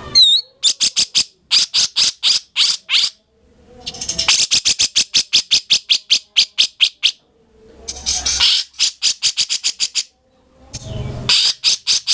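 A cucak jenggot (grey-cheeked bulbul) singing in loud, rapid phrases of sharp repeated notes. It opens with a quick whistled flourish, then runs series of notes at about three to eight per second, with brief pauses between phrases.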